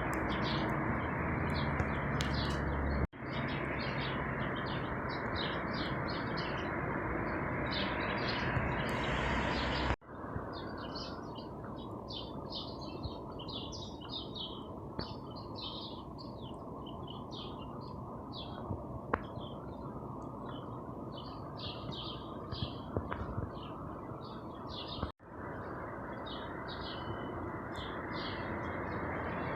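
Many small birds chirping and singing in quick short notes over a steady hum of city noise. The sound drops out for an instant three times.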